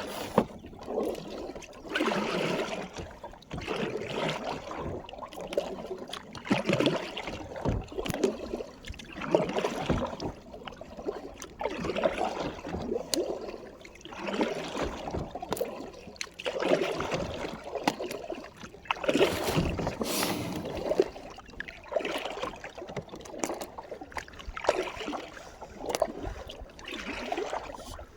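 Kayak paddle strokes: the blades dip and splash in the water, with dripping in between, about one stroke every two and a half seconds.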